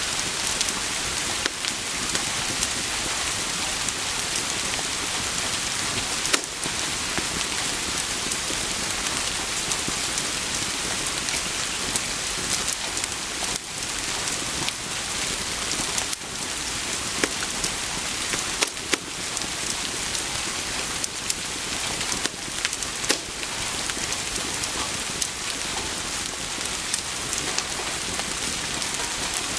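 Steady rain falling, an even hiss dotted throughout with scattered sharp clicks.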